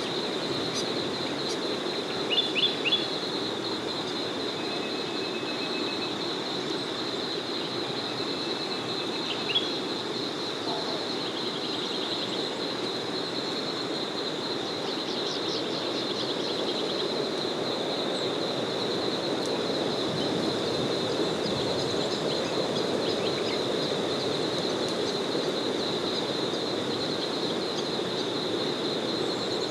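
A small forest river flowing steadily under a continuous high, fast-pulsing chorus. Birds call over it: a few sharp loud notes about two and a half seconds in, two long thin whistles a little later, and a quick run of chirps about halfway through.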